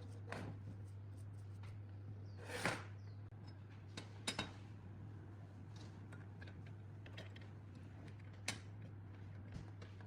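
Scattered sharp clicks and knocks of small parts being handled, with a louder brief scrape about two and a half seconds in, over a steady low hum.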